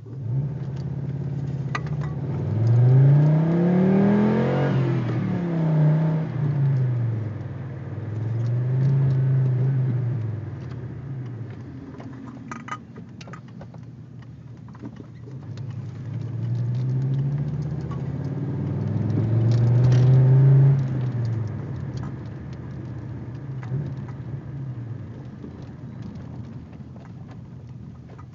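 Audi 80 B4 2.3E's inline five-cylinder engine through a Fox aftermarket exhaust, idling and revved up several times, each rev rising and falling back to idle; the longest and loudest rev comes a little past the middle.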